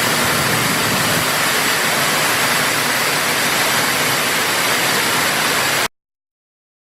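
CNC router running while it mills a wooden guitar neck: a steady, loud, hissing machine noise that cuts off abruptly about six seconds in.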